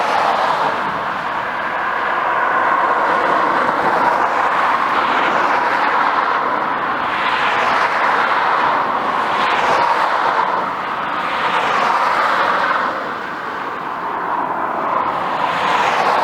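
Road traffic going by: tyre and engine noise swelling and fading several times as vehicles pass.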